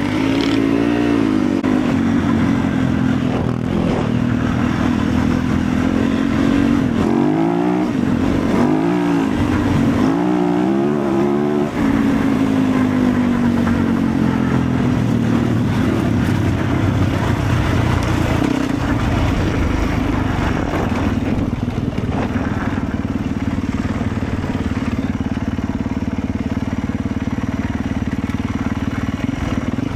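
Motorcycle engine running while riding. Its pitch rises and falls several times in quick succession about a third of the way in, then holds fairly steady.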